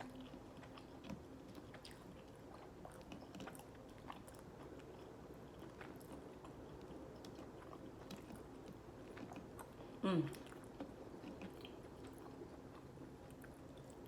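Faint chewing of chicken nuggets, with small scattered mouth clicks, and a short vocal sound falling in pitch about ten seconds in.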